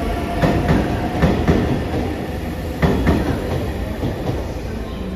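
Anpanman-liveried limited express train running past on station tracks, its wheels clacking over rail joints several times with a steady rumble, growing fainter as it moves away.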